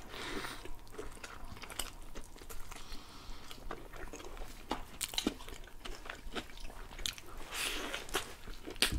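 Two people chewing and biting into shawarma wrapped in grilled lavash, close to the microphone, with many small clicks and the occasional soft crunch.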